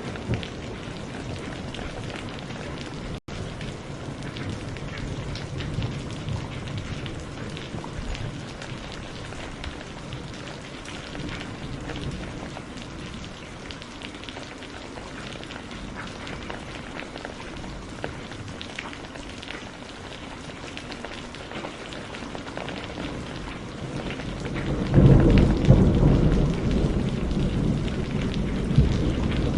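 Steady rain falling, with scattered drops, then a loud low roll of thunder near the end.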